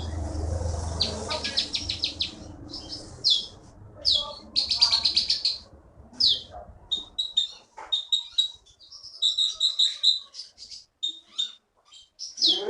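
Oriental magpie-robin (konin) singing a long varied song: repeated loud down-slurred whistles, a quick trill of clipped notes and chattering phrases.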